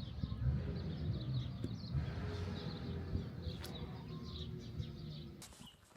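Small birds chirping again and again, short high notes, over a low rumble.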